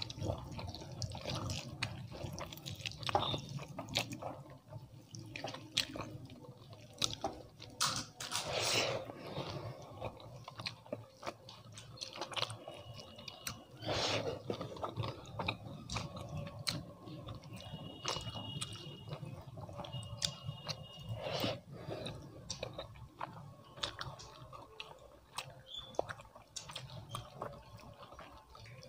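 Close-miked chewing of dal and rice eaten by hand, with wet squishing as the fingers mix rice into the dal and lift handfuls to the mouth, and many small irregular clicks.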